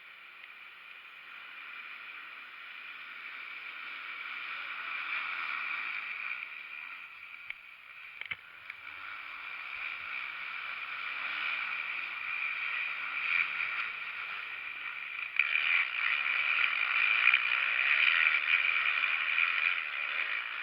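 Motocross motorcycle engines buzzing on the track, heard through a small microphone. The sound grows gradually louder and jumps up sharply about three quarters of the way through as bikes come closer.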